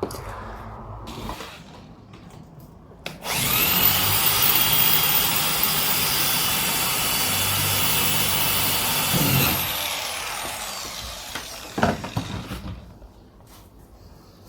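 Handheld power tool starting suddenly about three seconds in, running steadily for about six seconds, then winding down over a few seconds with a falling pitch. A sharp knock comes near the end.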